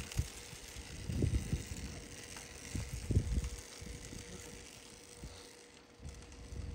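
Husqvarna EE 5 electric mini dirt bike riding off at walking speed in its slowest mode, with a faint mechanical whir of chain and motor. Wind buffets the microphone twice, about one and three seconds in.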